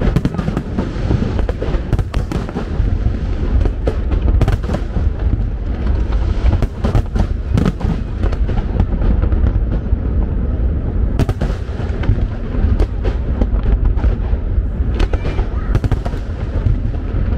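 Aerial firework shells bursting one after another: a dense, fast run of loud bangs over a continuous low rumble.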